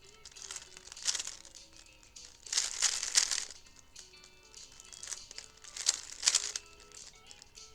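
A plastic 3x3 speed cube being turned in quick bursts of rapid clacking, each lasting under a second, with pauses between. Faint background music plays throughout.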